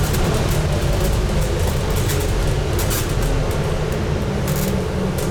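Scania N250UD double-decker bus on the move, heard from on board: a steady engine note under road and body noise, with a few brief rattles.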